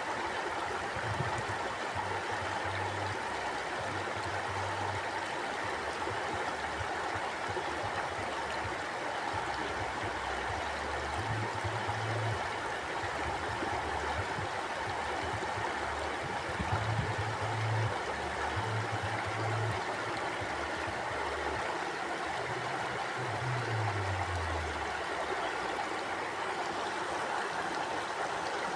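Mountain river flowing over rocks: a steady, unbroken rush of water, with a low rumble that comes and goes.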